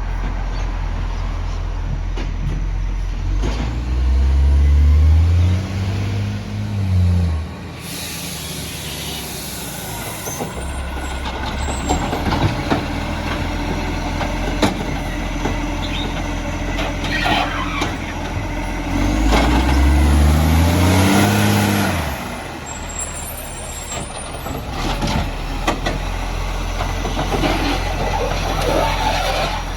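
Recycling garbage truck's diesel engine running, revving up and dropping back twice, with a sharp air brake hiss just after the first rev.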